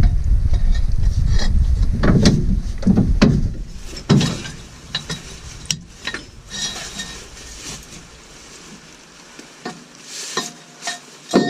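A loud low rumble for the first three seconds or so, then scattered metallic clicks and knocks from ratchet straps being worked on a lorry load.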